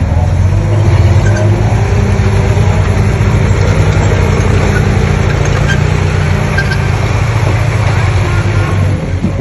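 Komatsu D20P bulldozer's diesel engine running steadily under load, a deep, even engine drone.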